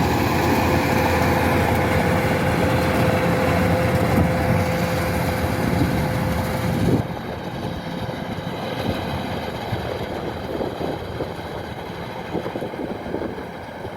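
Kubota DC-105X combine harvester running, a loud steady machine noise with a held whine. About halfway through it drops suddenly to a quieter run, with scattered short knocks.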